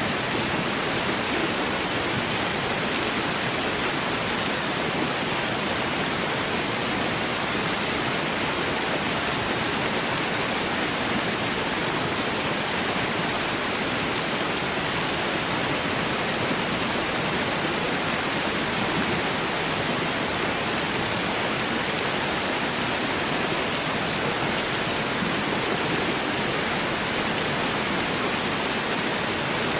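Babbling creek water running steadily, an even rushing wash with no breaks.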